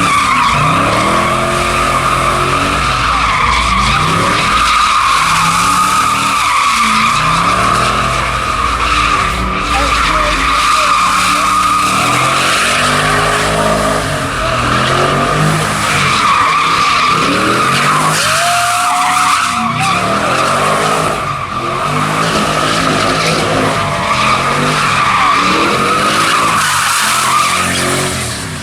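A car doing donuts: tyres squealing without a break while the engine revs up and drops back again and again, about every two seconds.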